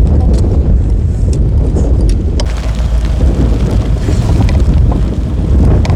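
Strong wind gusts in a snowstorm buffeting the microphone, a loud continuous low rumble, with a few faint ticks.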